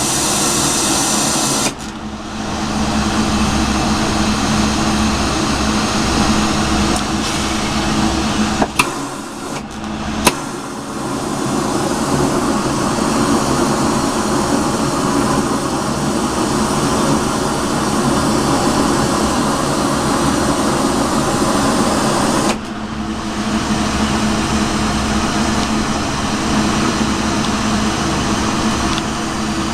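Lampworking glass torch flame running with a steady rushing hiss while a borosilicate rod is heated. It gets louder about two seconds in, dips briefly with a couple of clicks around nine to ten seconds, and eases slightly around twenty-three seconds.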